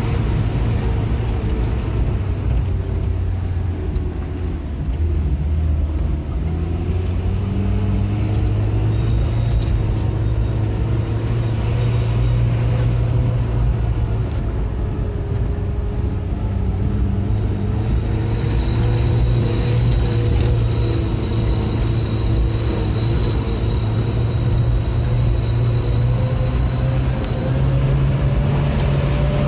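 A motor vehicle's engine running with a heavy low rumble, its pitch slowly rising and falling as the load changes. A faint high whine sounds through the latter part.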